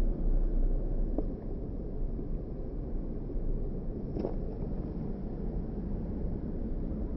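Steady low rumble of a vehicle with wind noise on the microphone, a little louder in the first half-second, with a faint tick about a second in and a brief higher sound about four seconds in.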